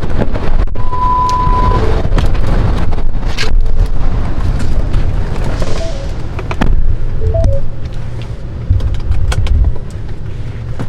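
Wind buffeting the microphone over traffic noise, with scattered clicks and a single steady beep lasting about a second, about a second in.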